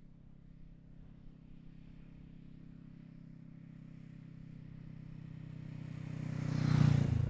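Honda Rebel 500's parallel-twin engine through a Falcon Double Groove exhaust with the baffle (dB killer) removed, approaching at a steady engine speed. It grows steadily louder and is loudest near the end as the motorcycle comes closest in a drive-by.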